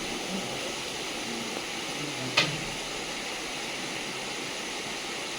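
Steady hiss of background noise, with one sharp click about two and a half seconds in.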